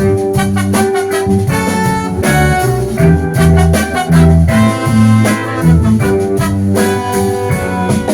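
Live soul band playing an instrumental passage between vocal lines: guitar and bass over drums, with held notes from other instruments.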